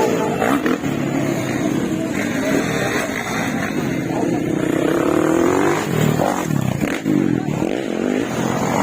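Motocross dirt bike engines running and revving, their pitch rising and falling.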